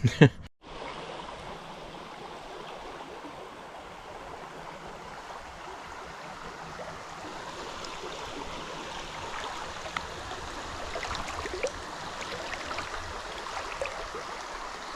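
Small creek flowing steadily. A few faint clicks or ticks come through in the second half.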